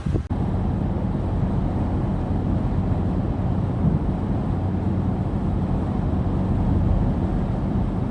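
A steady engine drone with a rushing, wind-like noise over it, starting and stopping abruptly.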